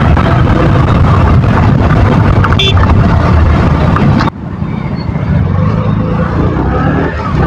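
KTM motorcycle engine and exhaust running while riding, mixed with wind rush. About four seconds in, the rush and overall level drop off abruptly, leaving a quieter, steadier engine note.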